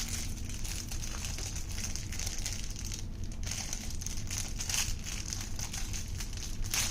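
Plastic wrapping crinkling and crackling as it is handled and pulled at to get a tightly wrapped package open, in many irregular small crackles.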